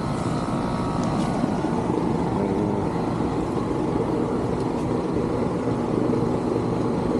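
Rheem air-conditioner condensing unit running steadily, its compressor and condenser fan making a constant drone. Its condenser coils are dirty.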